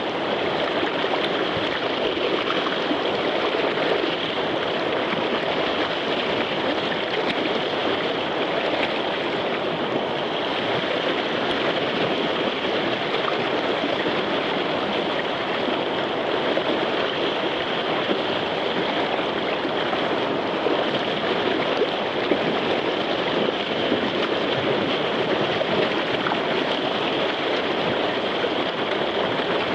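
Whitewater of a river rapid rushing steadily, an even roar of moving water with no breaks.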